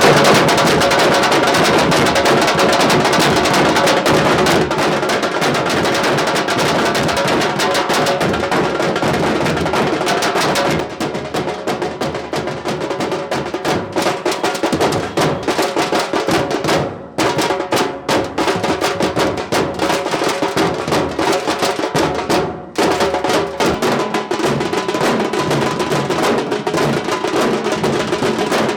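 Nashik dhol drum troupe playing a loud, fast, dense rhythm on dhol drums, with two brief breaks, about seventeen and twenty-two seconds in.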